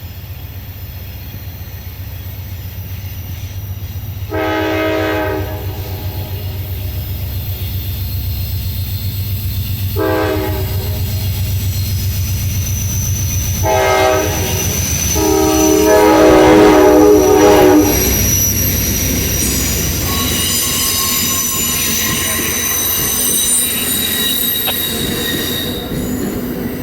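Amtrak locomotive horn sounding four blasts for the level crossing, the last one the longest and loudest, over the locomotive's low steady running drone as the train approaches. Once the train is passing, high-pitched wheel squeal follows.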